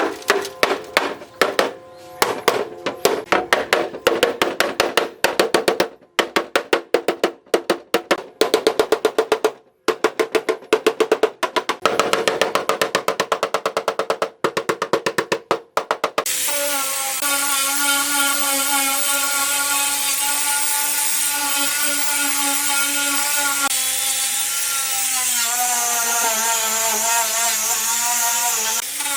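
Fast repeated tapping strikes, several a second, for about sixteen seconds. Then a power tool starts and runs steadily with a whine, its pitch dipping briefly a few seconds before the end.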